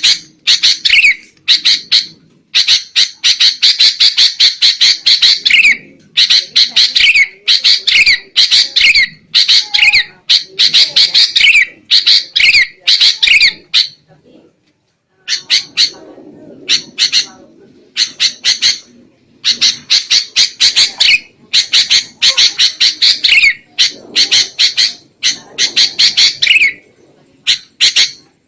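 Sooty-headed bulbul (kutilang) giving noisy, agitated calls: rapid runs of harsh chattering notes in repeated bursts, with a short break about halfway through.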